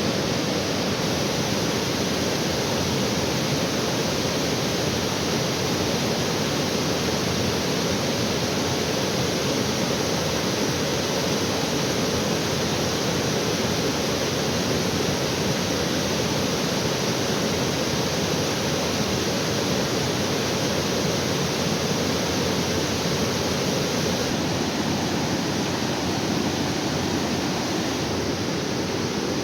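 Steady rushing of falling water from a waterfall, an even roar with no breaks or changes.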